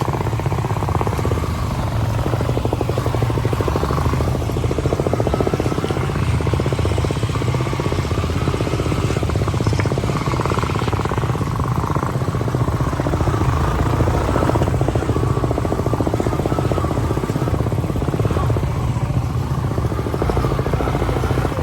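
Motorcycle engine running steadily while riding on a rough, stony dirt road.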